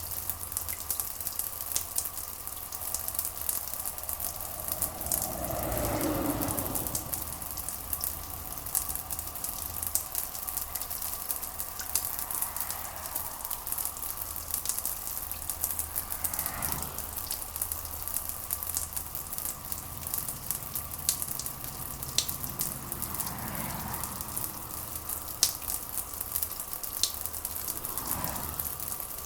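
Steady rain with a dense patter of drops over a low constant hum. Soft swooshes falling in pitch pass every few seconds, the strongest about six seconds in.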